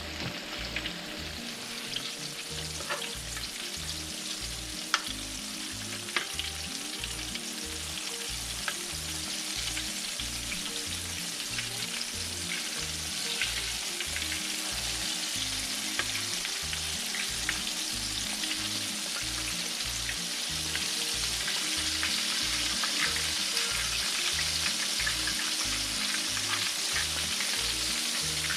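Flour-coated chicken strips deep-frying in hot oil in a cast iron skillet: a steady sizzle with scattered sharp pops, growing a little louder as it goes.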